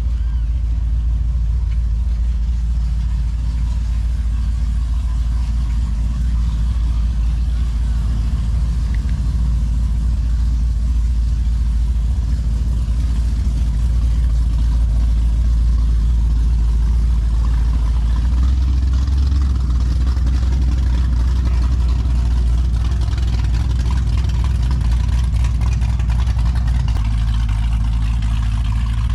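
A motorboat's engine running loudly and steadily, a deep rumble that holds on without a break.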